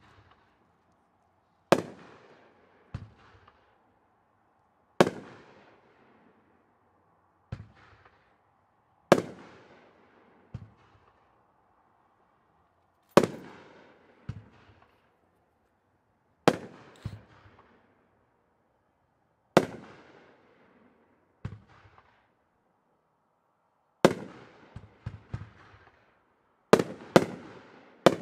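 A Monster Brocade 500-gram consumer fireworks cake firing shells one at a time. A sharp bang comes every three to four seconds, most followed about a second later by a softer pop, with three bangs in quick succession near the end.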